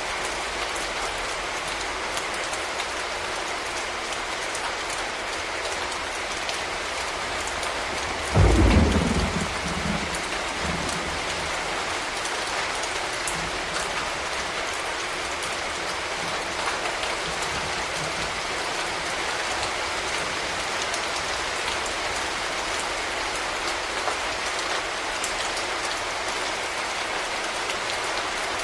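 Steady rain falling, with one sudden low rumble of thunder about eight seconds in that drops in pitch and dies away over two or three seconds.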